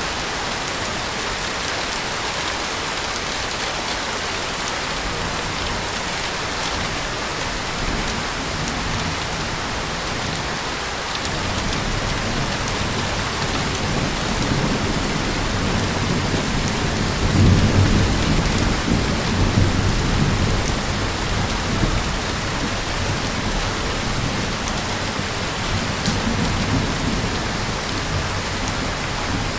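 Heavy rain falling steadily. A long low rumble of thunder builds about a third of the way in, is loudest just past the middle, then dies away, with a smaller swell near the end.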